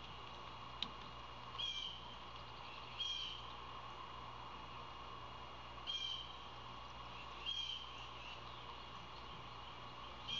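A bird calling off-camera: short, high calls repeated every one to three seconds, over a steady outdoor hum, with a single sharp click about a second in.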